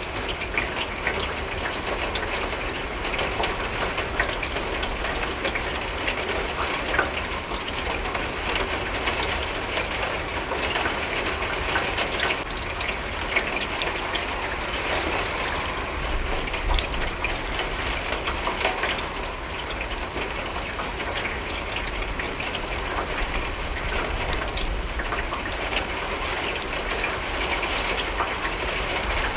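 Steady heavy rain with countless drops hitting a window pane, over a low rumble underneath.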